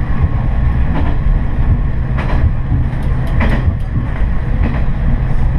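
Diesel railcar running along the line, heard from inside the cab: a steady low engine drone with scattered clicks of the wheels over the rails, a few of them close together a little past the middle.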